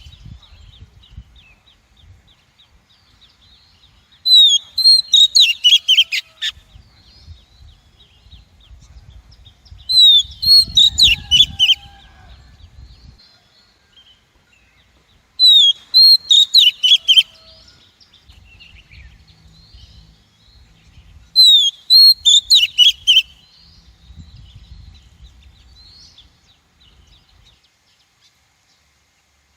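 Female Oriental magpie-robin calling: four bouts about six seconds apart, each a quick run of sharp, rising and falling whistled notes lasting about two seconds.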